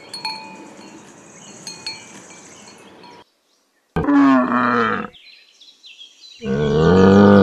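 Small bells clinking faintly, then two yak calls: a short grunting call, and near the end a longer, deep, drawn-out one.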